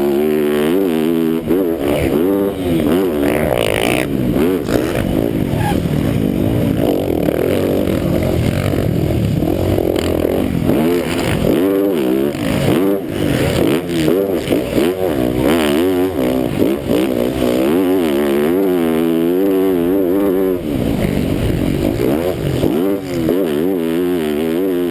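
MX1 motocross bike engine revving hard, its pitch rising and falling over and over with throttle and gear changes, heard close from the onboard camera.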